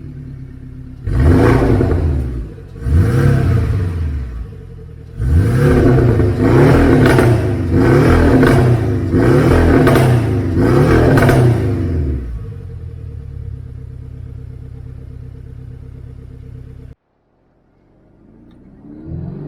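Porsche 718 Cayman's 2-litre turbocharged flat-four revving through a Tneer valved exhaust with a 200-cell downpipe: two single throttle blips, then a run of about six quick blips, settling to a steady idle. The sound cuts out abruptly about three-quarters through and fades back in near the end.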